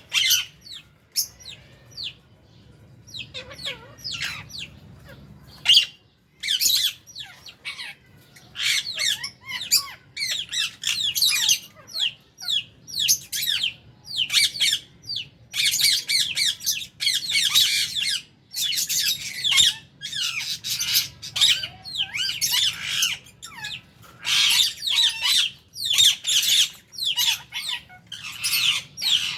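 A flock of lovebirds, with budgies among them, chattering and squawking in quick, overlapping shrill calls, one burst after another with only brief lulls.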